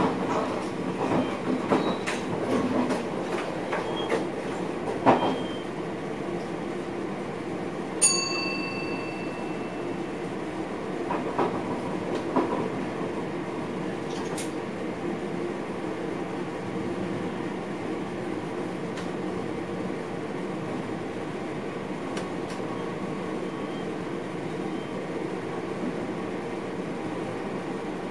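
Passenger train running on rails, heard from inside the driver's cab: a steady rumble with wheel clicks over rail joints in the first few seconds. About eight seconds in comes one sharp click with a brief high ringing tone, and a few more clicks follow before the running settles to an even rumble.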